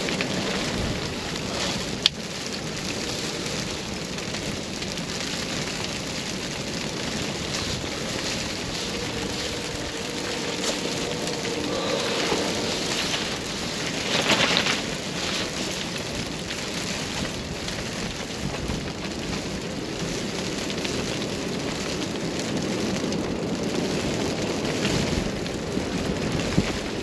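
Strong storm wind blowing steadily with wind-driven rain, swelling into a louder gust about halfway through; a single sharp click about two seconds in.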